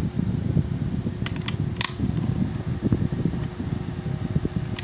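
O2 Cool battery-powered mini box fan running, a steady whir of motor and air with a constant hum. A few sharp clicks come about a second and a half in and again near the end.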